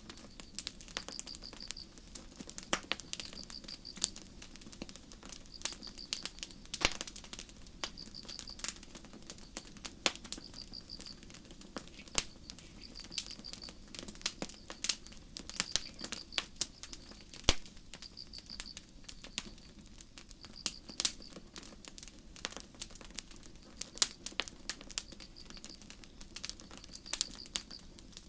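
Campfire crackling, with irregular sharp pops over a faint low hiss of burning wood. Crickets chirp steadily behind it in short, high-pitched pulsed trills every second or two.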